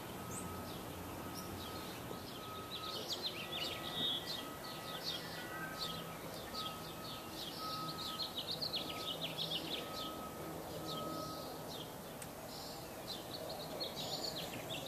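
Small birds chirping and twittering over a low steady background rumble, with a thin high note repeating about twice a second through most of it.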